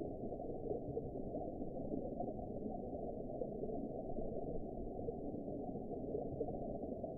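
Steady, muffled underwater ambience: an even, low rushing wash of water noise with no high sounds, unchanging throughout.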